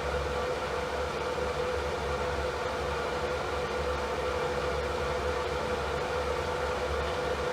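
Electric fan running steadily: an even rushing noise with a constant mid-pitched hum and a low rumble underneath.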